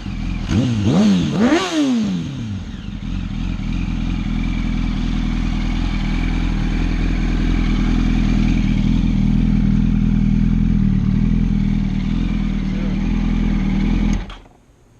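2007 Yamaha R1's inline-four engine through a Leo Vince titanium exhaust, blipped quickly two or three times, then settling to a steady idle. It cuts off abruptly near the end as the engine is switched off.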